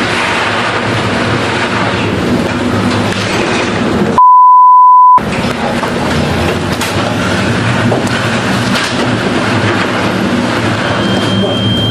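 Steady rumbling, roaring noise with a low hum, cut about four seconds in by a loud one-second censor bleep, a pure beep tone.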